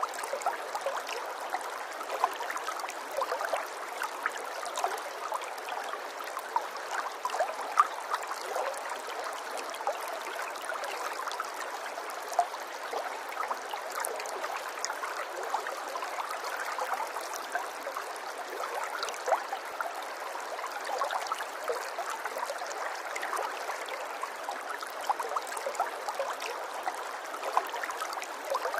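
Steady flowing water, a small stream or brook running over stones, with many brief small splashes and drips over a continuous wash.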